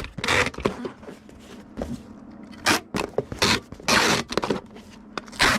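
A handful of short scraping, rustling handling noises, like items and packing material being moved about on a work surface.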